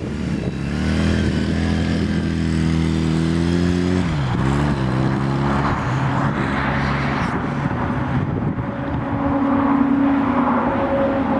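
Honda CMX250C Rebel's 234 cc air-cooled parallel-twin engine running: revs rise in the first second and hold, drop back sharply about four seconds in, then settle to a lower, steady run.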